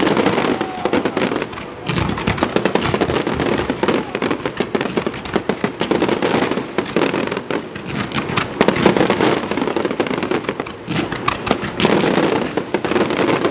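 Fireworks display: a continuous barrage of bangs and crackling, with brief lulls about two and eleven seconds in.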